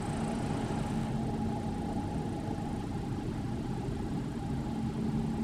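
Steady low rumble of electric trains, with a steady electrical hum over it.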